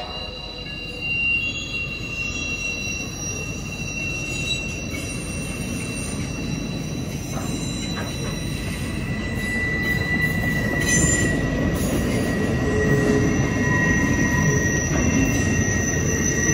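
Freight train cars rolling past at a grade crossing, a dense rumble of wheels on rail with steady high-pitched wheel squeal. It grows louder in the second half.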